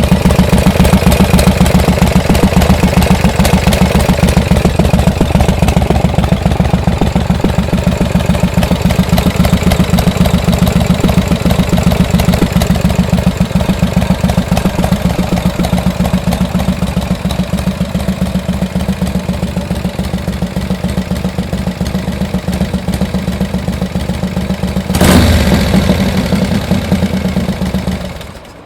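Harley-Davidson Shovelhead V-twin engine, freshly overhauled, idling with a steady pulsing beat. Near the end there is one short, sharp louder burst, then the engine shuts off and dies away.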